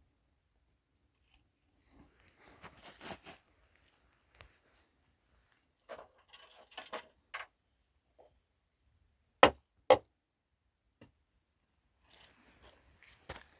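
Scattered knocks and light clatter of objects being handled, with two sharp, loud knocks about half a second apart just past the middle.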